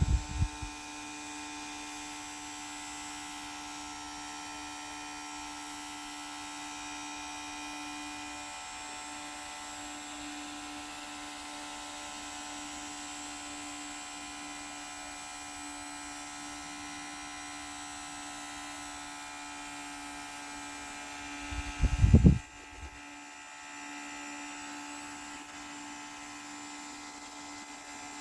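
A small electric motor running steadily with a constant whine. A brief low thump about 22 seconds in, after which the whine goes on slightly changed.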